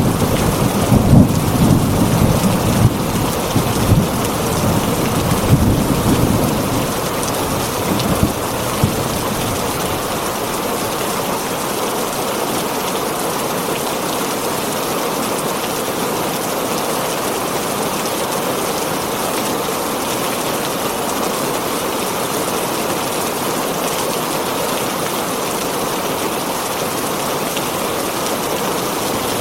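Heavy rain drumming steadily on a tin roof. Rolling thunder rumbles over it for the first several seconds and fades out about nine seconds in, leaving only the even rain.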